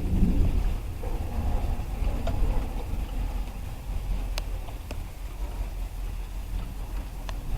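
Distant thunder rumbling low and steady, with a few sharp ticks of the first raindrops striking.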